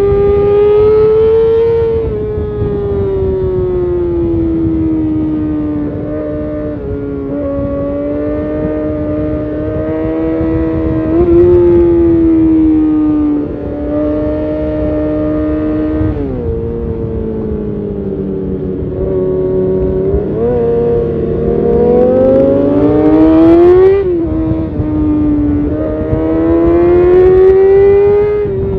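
2012 Kawasaki ZX6R's inline-four with an Arrow titanium race exhaust, running hard at high revs, its high wail rising and falling with the throttle. The pitch drops sharply twice, near two-thirds of the way through and again near the end, as gears change, over a steady rush of wind.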